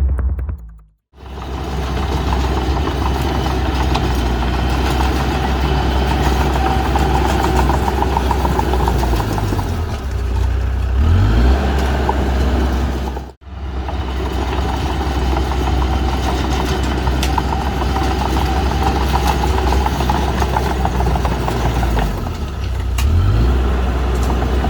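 Heavy diesel engine of earthmoving machinery (bulldozer or dump truck) running steadily under load, its pitch briefly rising twice as it revs. A short drop-out about halfway through.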